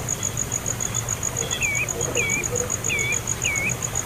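A steady, fast-pulsing high chirring, typical of a cricket, with a bird giving four short, curling chirps in the second half.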